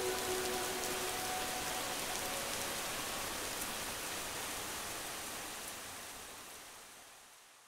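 Steady rain falling, the last held notes of music dying away about a second in, then the rain fading out gradually over the final few seconds.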